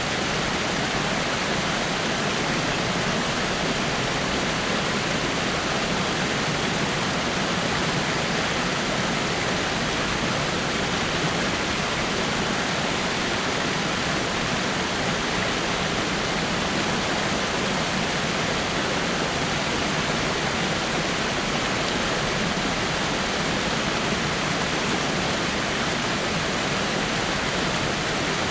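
Waterfall splashing over rocks: a steady, even rush of falling water with no change in level.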